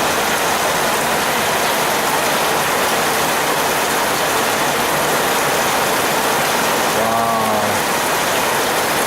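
Heavy rain pouring steadily, a dense unbroken hiss.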